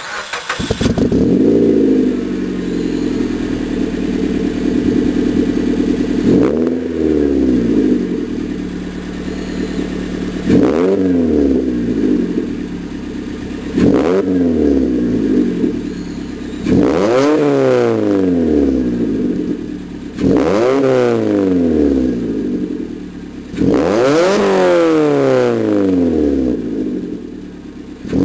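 Suzuki Swift Sport's 1.6-litre four-cylinder engine, breathing through an aftermarket dual-outlet sport exhaust, starts up and idles, then is revved six times, each rev rising quickly and falling back to idle.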